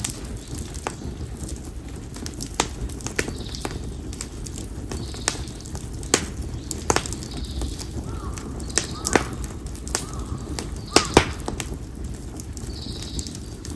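Konara oak firewood burning in an open campfire, crackling with irregular sharp pops and snaps, the loudest just after the middle, over a steady low rumble.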